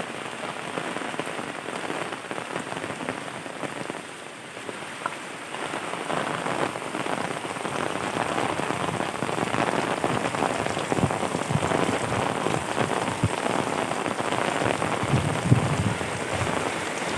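Heavy rain pattering on surfaces, with scattered louder drips, getting heavier about six seconds in.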